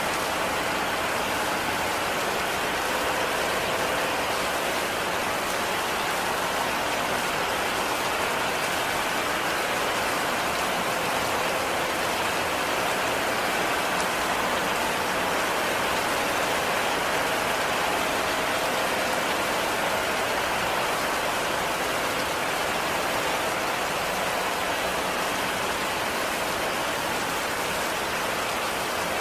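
Heavy rain falling steadily, an even, unbroken wash of drops with no let-up.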